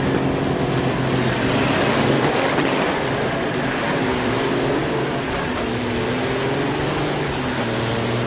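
Diesel semi-truck engine running with a steady drone, a high whistle rising about a second in.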